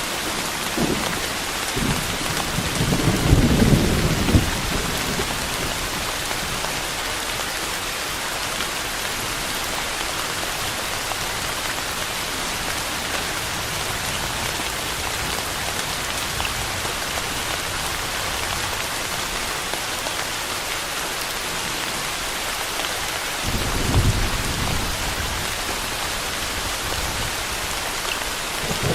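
Steady rain falling, with a low rumble of thunder a few seconds in and a shorter, fainter one near the end.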